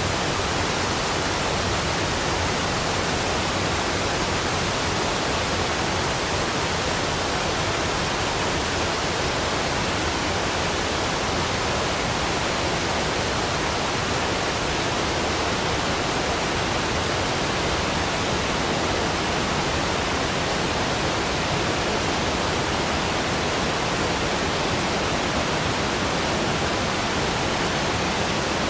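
Waterfall rushing: a steady, unbroken wash of falling-water noise spread evenly from low to high pitches.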